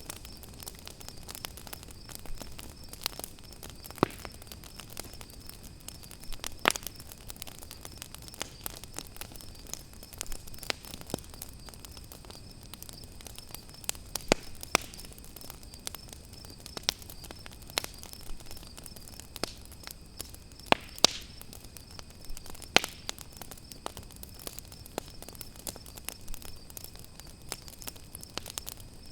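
Campfire crackling, with irregular sharp pops, a few of them much louder, over the steady high chirring of crickets.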